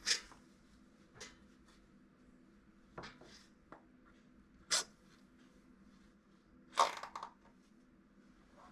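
Scattered handling noises of a pistol being fitted into a Kydex holster: a few separate short clicks and rustles, the sharpest near the start, just before five seconds in and just before seven seconds in.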